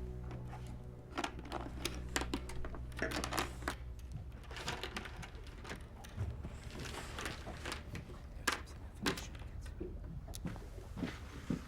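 Poker chips clicking and clacking as they are handled and stacked, in irregular sharp clicks, over a low hum that fades about four seconds in.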